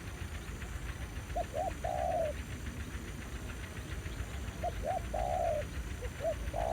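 Spotted dove cooing: two full phrases of short notes ending in a longer, drawn-out coo, about three seconds apart, with another phrase starting near the end.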